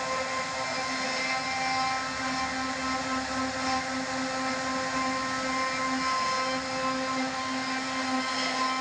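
CNC router spindle running at a steady high speed and cutting wood, a constant motor whine with a hiss of cutting over it.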